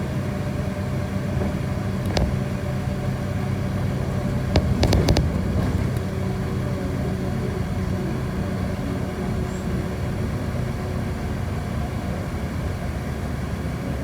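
City bus under way: a steady low engine drone. One sharp knock about two seconds in, and a short cluster of knocks or rattles about five seconds in.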